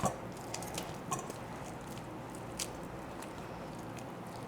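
Faint soft squishing with a few small scattered clicks: hands working seasoned, cooked chicken meat.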